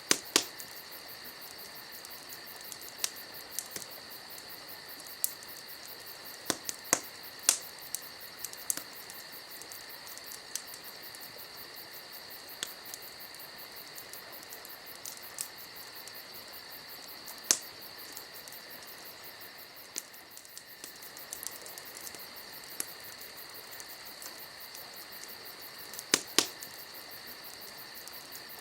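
Campfire crackling with scattered sharp pops, loudest near the start and near the end, over a steady high-pitched chorus of crickets.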